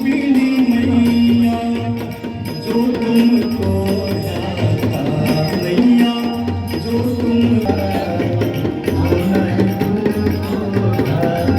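Hindu devotional aarti music: a sung, chant-like melody with long held notes over a steady beat of tabla-like drums.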